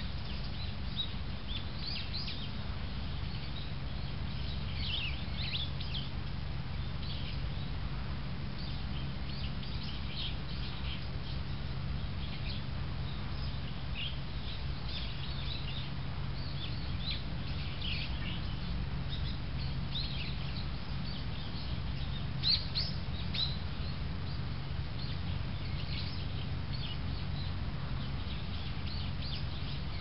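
Small wild birds calling in the trees: many short, high chirps scattered throughout, over a steady low hum.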